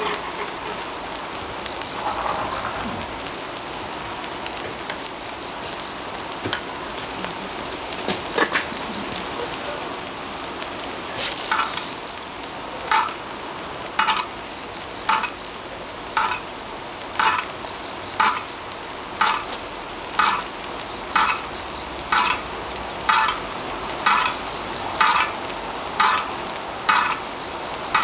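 Pumpkin pancakes sizzling in oil on a cauldron-lid griddle. From about twelve seconds in, a metal ladle scrapes the lid's central well about once a second, scooping out the oil and the water that the watery pumpkin keeps releasing.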